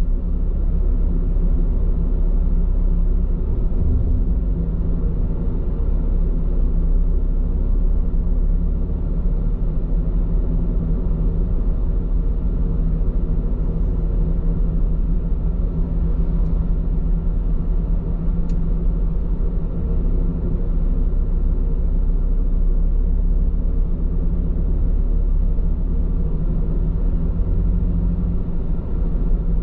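Steady road and tyre noise of a car driving, heard inside the cabin as a low, even rumble, on Bridgestone Regno tyres.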